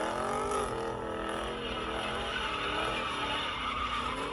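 Car engine revving: its pitch climbs over the first second, then holds high and wavers.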